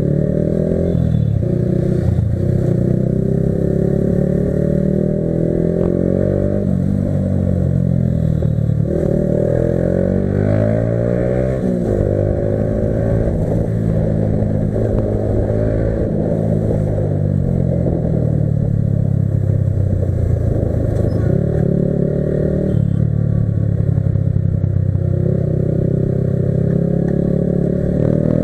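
Yamaha R15 V3's single-cylinder engine running under way, its pitch climbing as it revs through a gear and dropping back at each shift, over and over.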